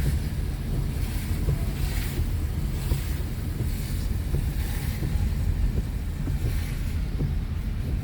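Steady low rumble of a car's road and engine noise heard from inside the cabin, with a fainter hiss above it that swells and fades every second or two.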